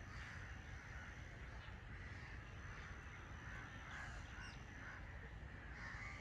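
Faint outdoor ambience with crows cawing.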